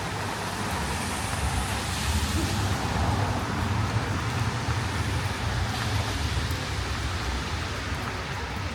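City street traffic on wet, rain-soaked roads: a steady hiss of tyres over a low engine rumble, the hiss swelling slightly about two seconds in as a vehicle passes.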